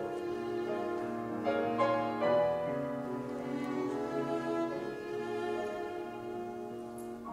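Piano trio playing classical chamber music: held bowed notes on violin and cello over piano chords, easing slightly in loudness toward the end.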